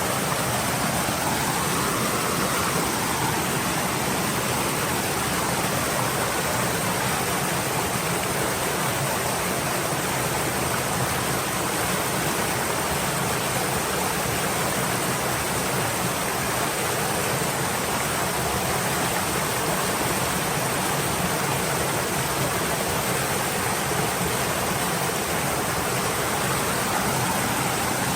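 Stream water flowing and babbling steadily, a continuous rushing wash with faint shifting gurgles.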